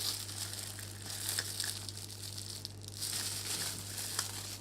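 Packaging crinkling and rustling irregularly as a handheld shower head is unwrapped, with small clicks, over a steady low hum.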